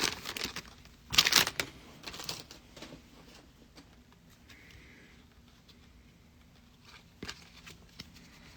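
Foil wrapper of a Panini Prizm card pack crinkling loudly about a second in as it is torn open, followed by faint rustling and small ticks of cards being handled.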